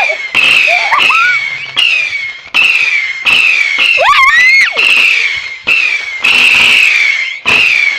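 Fireworks display finale: about ten sharp bangs in quick succession, each followed by a falling crackling hiss. A high squeal rises and falls about halfway through.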